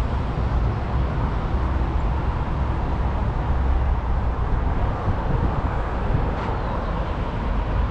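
Steady road traffic noise from passing cars, with a deep, constant rumble.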